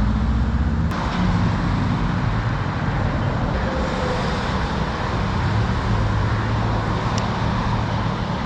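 Honda Super Cub's small single-cylinder four-stroke engine running steadily under way, with wind and road noise rushing over the microphone.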